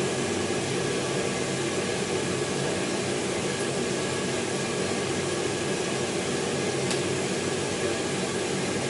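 Steady rushing, fan-like blower noise with a low hum underneath, unchanging throughout, with no hammer blows.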